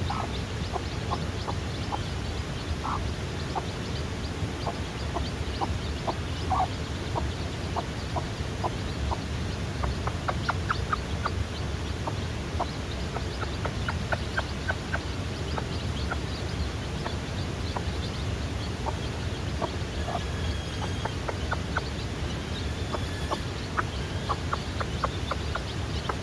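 Chickens calling: many short, quick calls in a steady stream, busiest in the middle, over a steady low background rumble.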